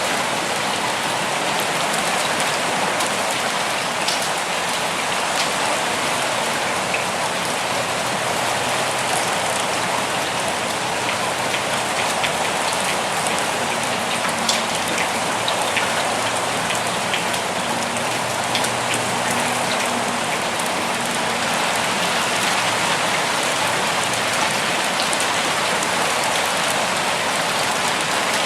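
Steady rain falling, an even hiss with single drops ticking here and there.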